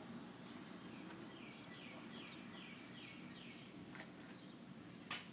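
A bird sings a run of about six short, repeated falling notes over faint outdoor ambience. Two sharp clicks follow near the end, the second the loudest sound.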